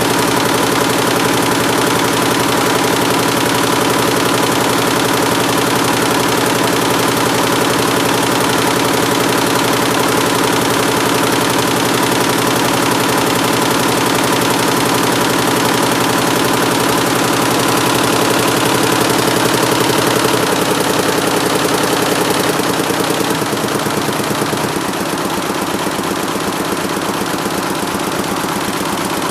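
176-needle mini Schiffli embroidery machine running with a fast, even clatter of needle strokes over a steady hum. About two-thirds of the way through, its hum drops in pitch and the sound gets slightly quieter.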